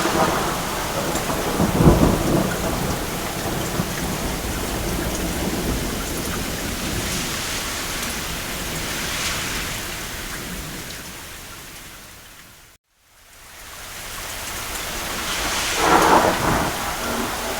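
Steady rain on a cabin roof with distant thunder rumbling about two seconds in and again near the end. About two-thirds through, the sound fades out to a moment of silence and fades back in, like a loop join in the recording.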